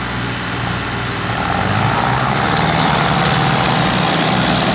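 Tractor diesel engine running hard, its revs and loudness rising about a second in and then held high as it strains to pull a loaded trolley.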